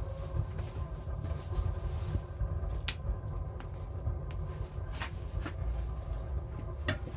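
A KamAZ brake drum being worked on over the hub and brake shoes: a few sharp metal knocks and clinks, about three, over a steady low rumble.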